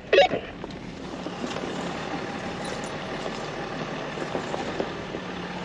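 An off-road vehicle's engine running steadily with a low, even hum and a bed of driving noise.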